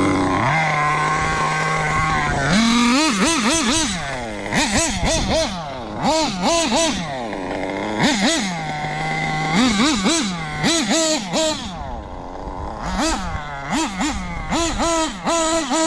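Kyosho KE21SP two-stroke nitro engine in an HPI Bullet RC car, settling at a steady idle and then blipped again and again in quick bursts of throttle, its pitch jumping up and falling back several times in a row.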